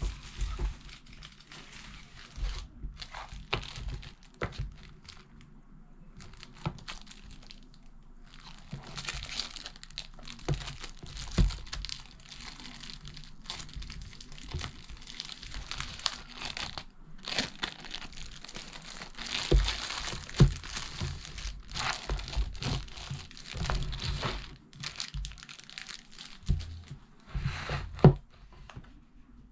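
Irregular rustling and crinkling noise on the microphone, with many scattered low knocks, busiest through the middle and latter part.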